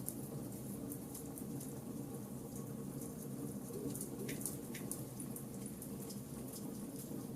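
Charcoal fire burning, with many small crackles and pops over a steady low rush.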